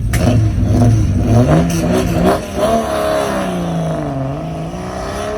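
Valiant Pacer's 265 Hemi straight-six on triple Weber carburettors revving hard: held at steady revs, climbing about a second and a half in, a break as the revs change near two seconds, then the pitch sinks as it comes off the throttle and settles.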